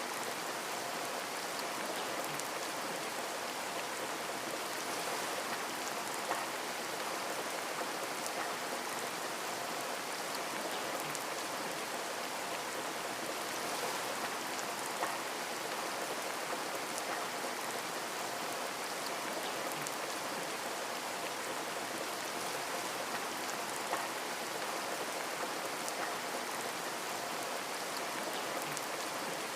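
Steady rain with scattered drops tapping on a window, with a few louder single drop ticks.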